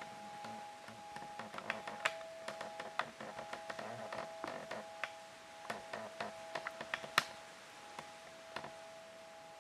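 Irregular sharp clicks and taps, several a second, with a louder click about seven seconds in, over a faint steady two-note hum.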